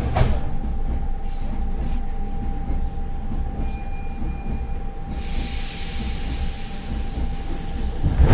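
Interior of a Russian suburban electric train running after the doors have closed: a steady low rumble with one constant tone, a sharp wheel knock just after the start, and a heavier thump of the wheels near the end. A hiss comes in about five seconds in.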